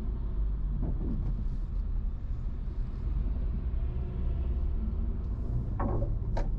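Steady low rumble of a vehicle travelling on a road, engine and road noise heard from inside a car.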